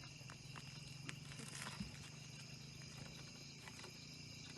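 Faint steady background of a high insect drone over a low hum, with a few light clicks and taps of a knife working the skin off a fire-roasted pumpkin.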